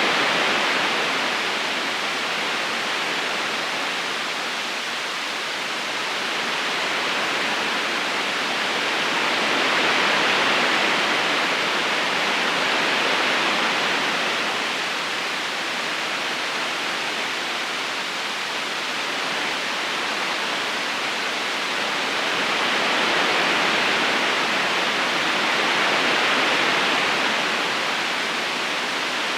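A river's current flowing steadily, a continuous rushing of water that swells and eases gently every several seconds.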